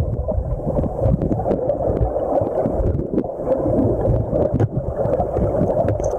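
River water rushing and gurgling, muffled and low, with scattered small clicks and knocks.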